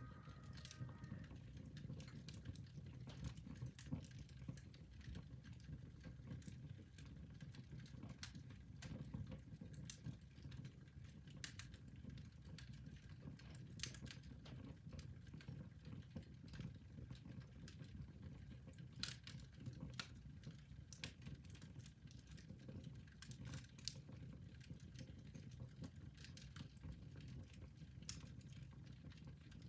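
Fire burning in a fireplace, crackling: irregular sharp pops and snaps over a low, steady rumble.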